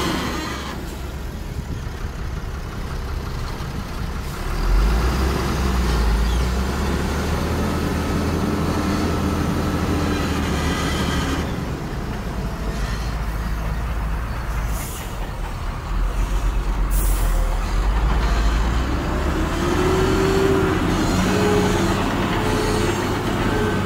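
Heavy diesel earthmoving machinery running under load, the engine note rising and falling, with two short hisses of air in the second half.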